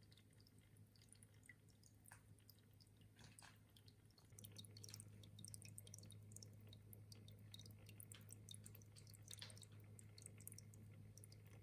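Near silence: a faint low hum that gets louder about four seconds in, with scattered faint ticks.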